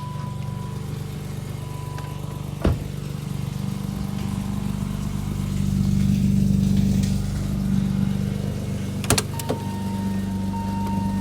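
BMW 850's 5-litre V12 running steadily, swelling a little in the middle. A sharp click comes about three seconds in and a couple more come about nine seconds in. A steady electronic tone sounds at the start and again near the end.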